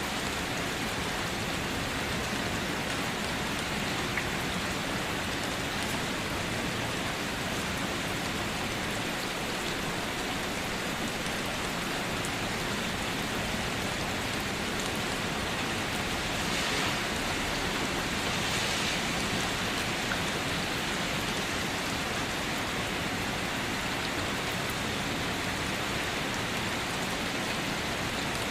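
Steady rain falling, a continuous even hiss with scattered single drop ticks, swelling slightly about two-thirds of the way through.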